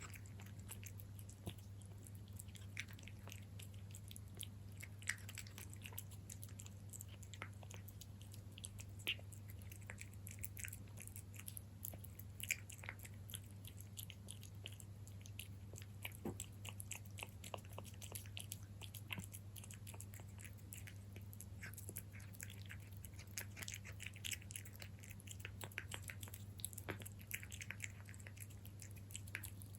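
A cat chewing and eating cat food close to the microphone: many quick, irregular small clicks and smacks of its jaws, over a steady low hum.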